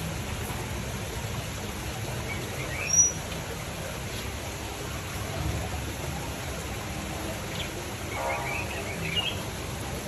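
Small aviary birds chirping now and then, with one sharp high note about three seconds in and a short run of chirps near the end, over steady background noise.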